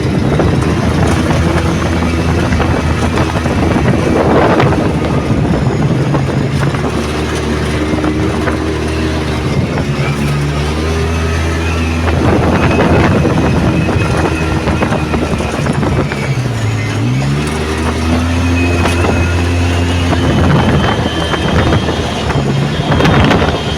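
Yamaha YXZ1000R side-by-side's three-cylinder engine running under way, its pitch shifting with throttle and dipping then climbing again about two-thirds of the way through. Three brief surges of rushing noise rise over the engine.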